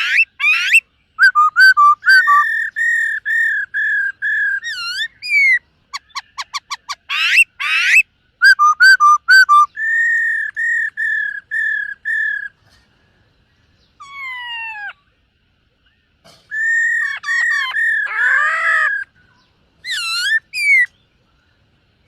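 Black-throated laughingthrush singing: runs of clear, even whistled notes about three a second, broken by quick rising and falling sweeps and rapid trills, with a couple of short pauses.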